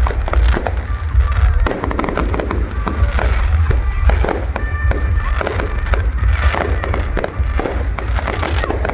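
Fireworks bursting in rapid, irregular bangs over a heavy low rumble, with music playing alongside.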